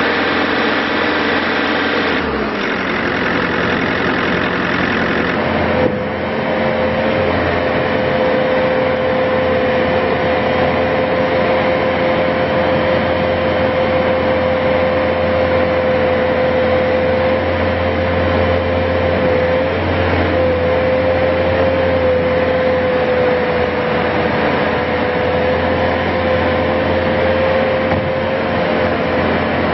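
Bobcat S530 skid steer's diesel engine running steadily. A steady whine joins it about six seconds in and holds.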